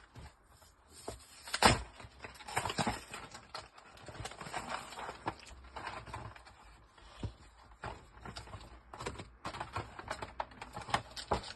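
Cardboard and plastic packaging of a trading-card collection box being opened and handled by hand: irregular rustling, crinkling and tapping, with one sharp snap about a second and a half in.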